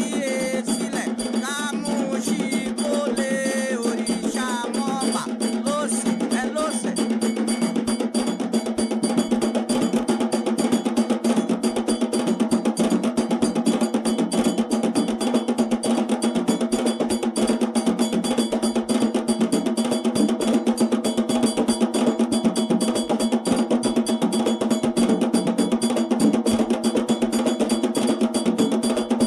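Afro-Brazilian ritual drumming: atabaque hand drums with a metal bell (agogô) playing a fast, steady rhythm. Voices sing over it for the first several seconds, then the drums and bell carry on alone, a little louder.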